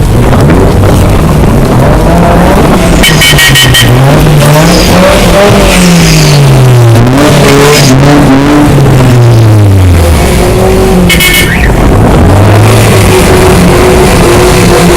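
Car engine revving up and down repeatedly, its pitch rising and falling every couple of seconds over a steady low rumble, with brief high squeals about three seconds in and again near eleven seconds.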